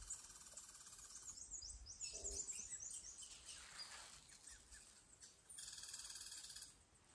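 Several small birds singing: a fast trill that stops about a second in, then a run of quick high chirps, and another high trill near the end.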